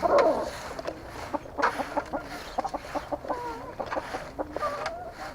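Chickens clucking: a string of short calls, the loudest right at the start.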